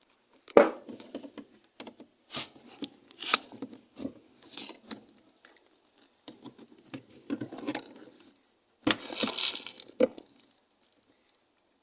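Irregular knocks, clicks and rustling or scraping, as of objects being handled, with the loudest knock about half a second in and a longer stretch of rustling near the end.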